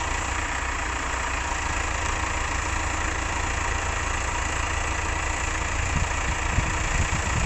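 A vehicle engine idling steadily, with a deep, even rumble.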